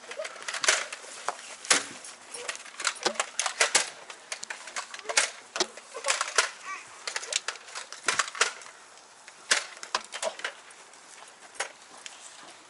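Irregular sharp clicks and knocks, densely spaced for roughly the first eight seconds and sparser after.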